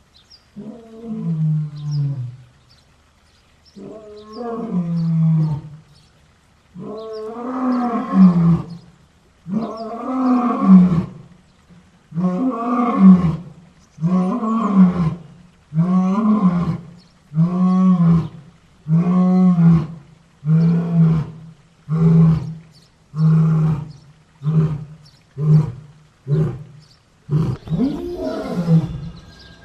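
A lion roaring bout. It opens with a few long, low moaning roars that build to full roars. These give way to a run of grunting roars about every two seconds that grow shorter and quicker, down to about one a second. Near the end a new, longer call that falls in pitch begins.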